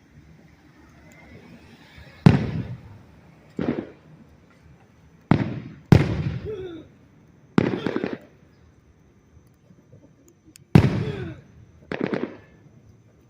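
Fireworks bursting overhead: seven sharp booms at uneven spacing over about ten seconds, each dying away in a short rumbling tail.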